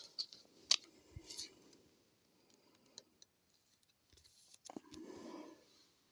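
Trading cards being handled: a few sharp clicks and light rustling in the first second and a half, then a brief soft rustle about five seconds in.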